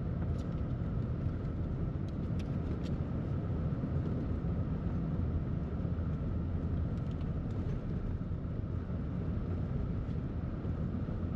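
Pickup truck's engine running, a steady low rumble.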